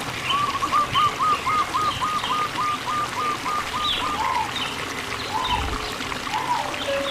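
Birds calling over trickling water. One bird repeats a short note about three times a second for the first four seconds, then gives slower, lower notes, while other birds add higher chirps.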